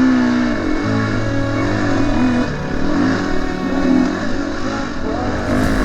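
A KTM four-stroke enduro dirt bike's engine, revving up and down in quick repeated rises and falls as it is ridden hard.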